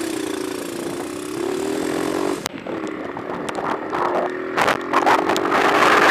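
A small engine running, its pitch rising and falling, picked up by an action camera's built-in microphone. There is a sharp click partway through and a cluster of clicks later on, and a hiss swells near the end.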